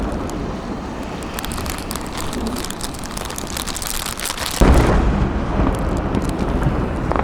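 Aerial fireworks: a dense crackling through the first four seconds or so, then a sudden deep boom of a shell bursting about four and a half seconds in, with a rumble that carries on.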